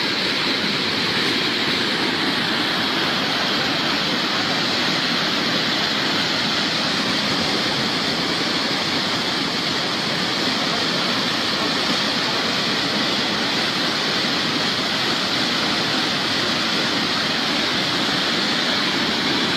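Steady, loud rush of a fast-flowing torrent of water, with no let-up.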